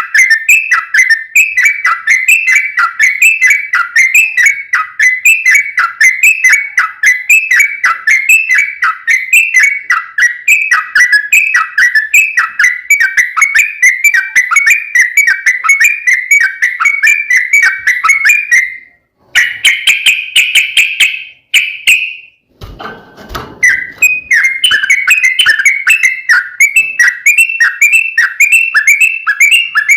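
Yellow-vented bulbul (trucuk) singing a fast, unbroken run of repeated whistled notes. It breaks off about two-thirds of the way through for one held higher note. A short low rustle follows, then the run resumes.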